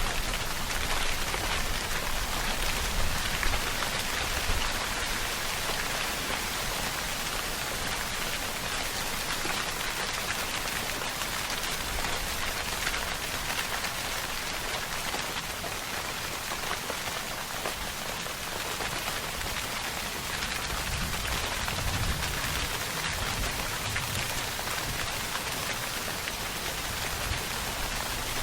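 Steady rainfall, a dense even patter of drops on a surface with a faint low rumble underneath.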